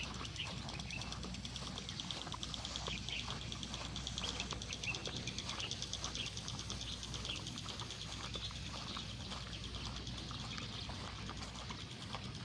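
Small birds chirping with short, high calls, and a fast, even trill through the middle, over a steady low hum.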